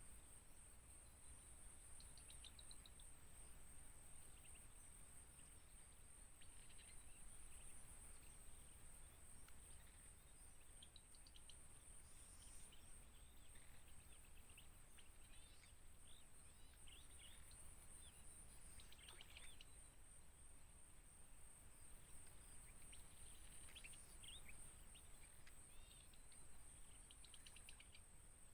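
Faint natural ambience: a steady high-pitched insect drone with scattered faint bird chirps.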